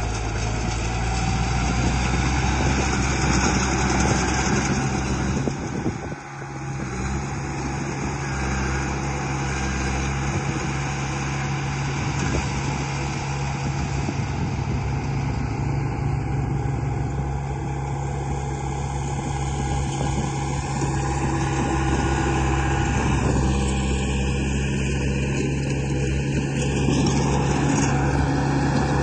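A remote-controlled model construction vehicle making a steady, idling diesel-like engine sound, with a brief dip about six seconds in.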